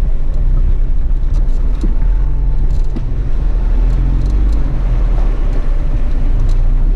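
A small 4x4's engine running at low revs, heard from inside the cabin as a steady low drone whose pitch rises and falls slightly as it crawls over a rough, muddy track, with a few faint clicks.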